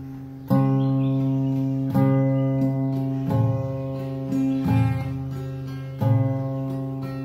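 Song intro on strummed acoustic guitar: a sustained chord is struck about every second and a half, each ringing on until the next.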